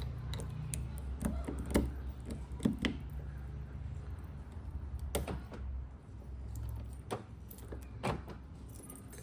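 Keys jangling and a few sharp knocks over a low, steady rumble that fades about halfway through.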